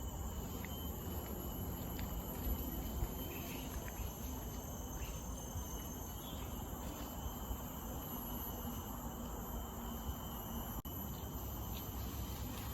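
Insects singing steadily in the forest, a continuous high drone made of several steady tones, over a low rumble.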